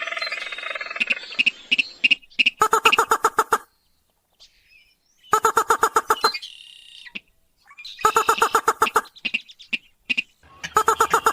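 Rail or crake calls: a falling call fades away at the start, then come four bursts of rapid, evenly repeated rattling notes, each about a second long with a pause between, and scattered sharp ticks among them.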